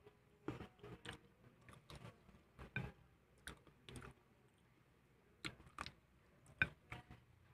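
Close-up mouth sounds of a person eating fried chicken: scattered wet clicks and lip smacks of chewing, with a louder bite into the drumstick near the end.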